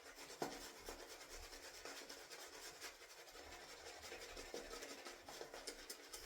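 Faint, steady scratchy rubbing of a shaving brush whipping thick shaving-soap lather, with a small click early on.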